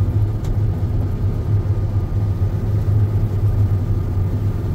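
John Deere X9 combine running steadily: a low, even engine-and-machinery drone with a faint tick about half a second in.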